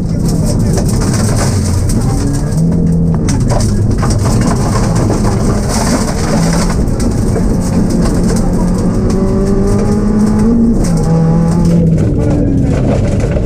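Rally car engine heard from inside the cabin at speed on a stage, its note climbing and dropping back through gear changes over loud road and tyre noise. The car is a Ford Focus in N3 trim.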